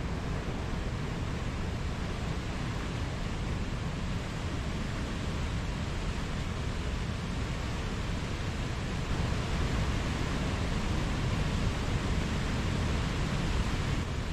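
Mountain stream rushing steadily over rocks, a constant full hiss of flowing water.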